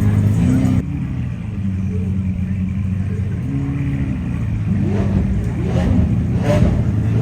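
Performance car engine idling, blipped a few times near the end with short rising revs. There is an abrupt cut about a second in.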